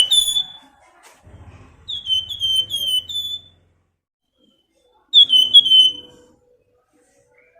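Flamboyan songbird whistling in short phrases: each is a quick run of three or four down-slurred whistled notes, and the first two phrases each end on a short level note. One phrase ends just after the start, and two more follow about two and five seconds in.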